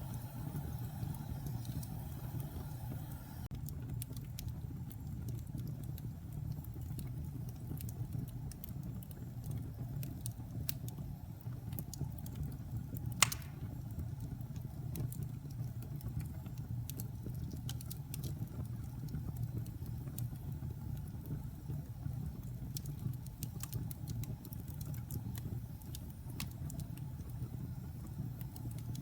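Log fire burning with a steady low rumble, scattered sharp crackles, and one loud pop about thirteen seconds in.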